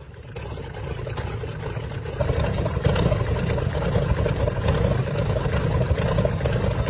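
The 47-litre BMW V12 aircraft engine of the car Brutus running with a low rumble. It grows louder over the first two seconds, then holds steady.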